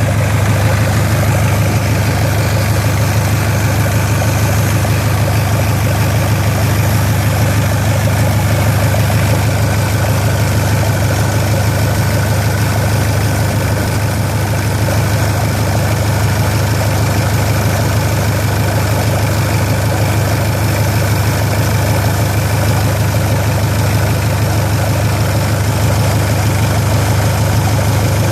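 Hyundai engine idling steadily, a low even hum with no revving.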